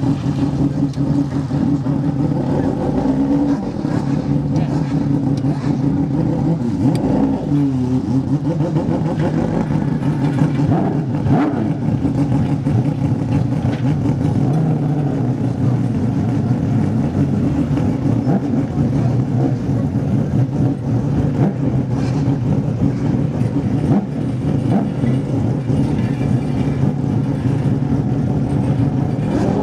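Mazda rotary-engined racing cars running at low revs with a steady, busy engine note, with a short rise and fall in pitch about seven seconds in.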